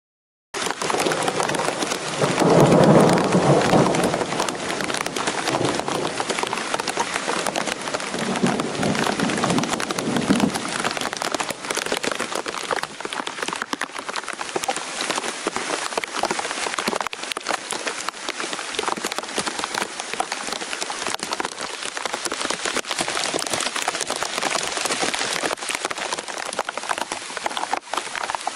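Heavy rain falling steadily, with a rumble of thunder about two to four seconds in and a fainter rumble around eight to ten seconds.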